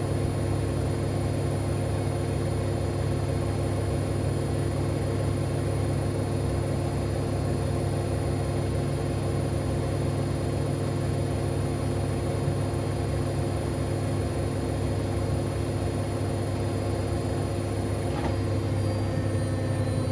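Siemens Extraklasse XLs 140 A washing machine spinning its drum at a steady high speed: a continuous hum with a motor whine, without the pauses of wash tumbling. About 18 seconds in, the pitch starts to shift as the spin speed changes.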